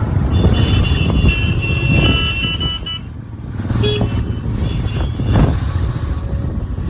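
Road traffic: motor vehicles and motorcycles running along a road, with a dip in the noise about three seconds in before it picks up again.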